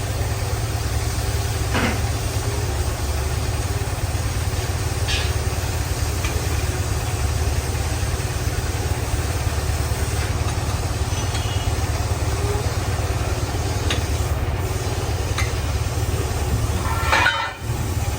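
Heavy boring machine running steadily on a steel pipe, a low rumble with a faint hum. A few faint clicks come through it, and a brief louder clatter near the end.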